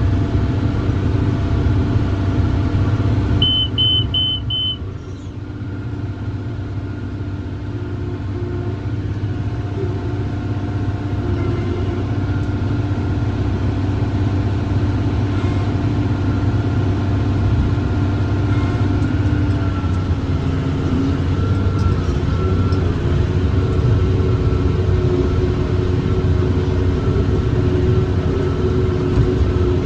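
John Deere 7410 tractor's six-cylinder diesel engine running steadily under load while pulling a working John Deere 468 round baler, heard from inside the cab. About three and a half seconds in, four quick electronic beeps sound and the engine noise dips briefly.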